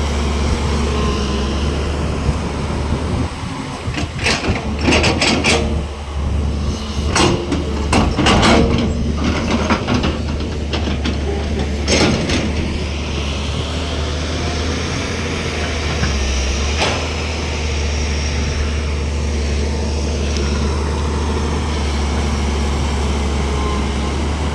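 JCB 205 excavator's diesel engine running steadily with a deep drone. Over it comes a run of sharp knocks and metallic clanks from about four seconds in to about twelve, and one more near seventeen seconds.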